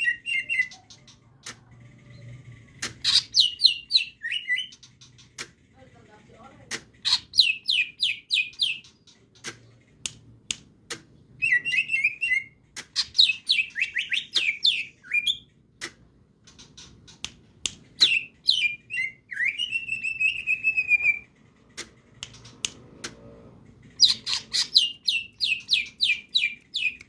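Green leafbird (cucak hijau) singing in about five bursts of rapid, sharp chirping notes, some phrases ending in a longer slurred whistle, with gaps of a second or more between them and sharp ticks scattered through.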